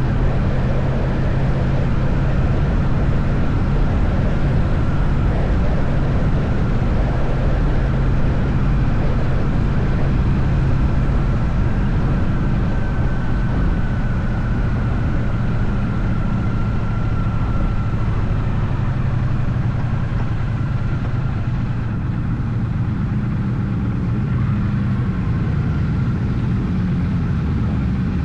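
Triumph Bonneville T100 parallel-twin engine running steadily at cruising speed, with a steady rush of wind and road noise over it.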